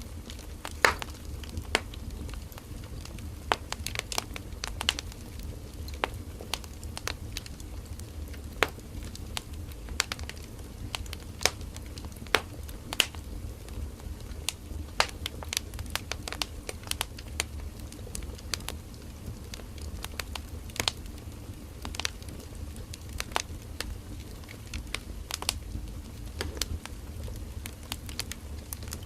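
Firewood burning in an open wood fire, crackling and popping with irregular sharp snaps over a low steady rumble of the flames.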